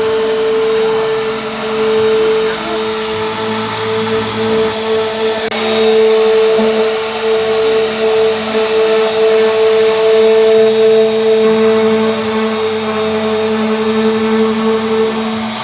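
Electric power tool motor running at a steady speed, a constant pitched whine with a low hum beneath it.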